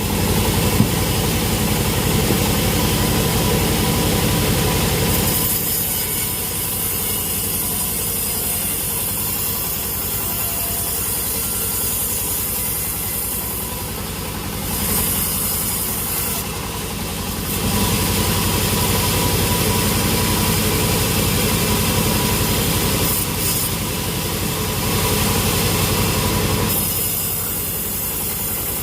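Sawmill saw and its engine running steadily, with the noise of the blade cutting wadang wood growing and easing several times.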